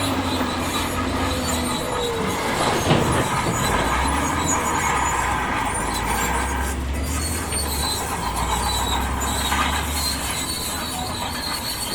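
Crawler bulldozer's diesel engine running under load while its steel tracks squeal and clank, with a high thin squeal through the second half. A sharp knock comes about three seconds in.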